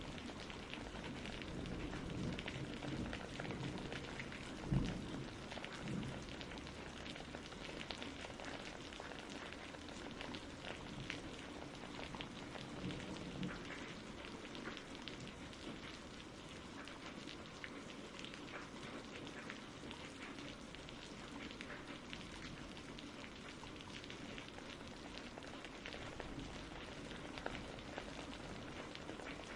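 Steady rain with a pattering of drops, and a short, loud low thump in a spell of low rumbling about five seconds in.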